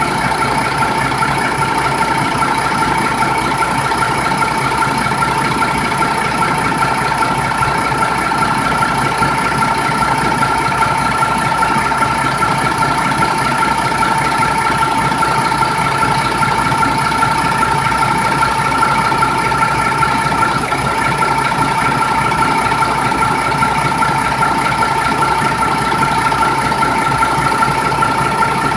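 MAN diesel engine running steadily at constant speed, with steady whining tones over the engine noise.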